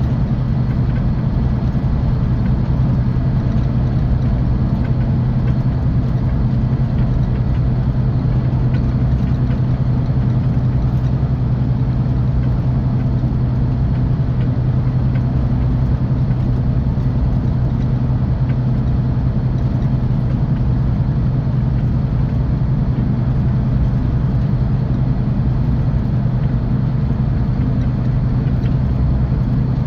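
Scania K450EB coach engine and tyres heard from inside the bus, a steady low drone at constant speed with no change in pitch.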